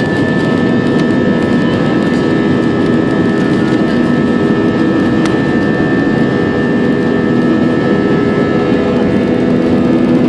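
Airbus A320's jet engines at takeoff thrust, a loud steady roar with a high, even whine over it, heard from inside the cabin during the takeoff.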